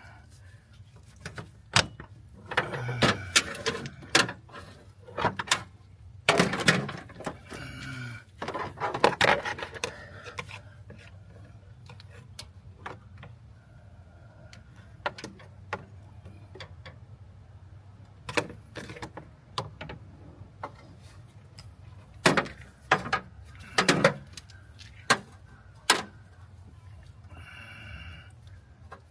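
Irregular knocks, clicks and clanks of hand tools and metal parts during work on the engine, with a few longer scraping bursts in the first ten seconds.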